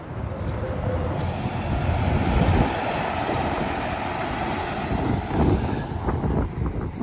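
Heavy truck passing on the highway: tyre and engine noise swells from about a second in and fades near the end.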